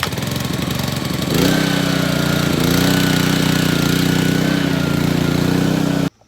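Petrol pressure washer's small engine running just after starting, picking up speed about a second and a half in and settling to a steady note with a thin high whine, then cutting off suddenly near the end.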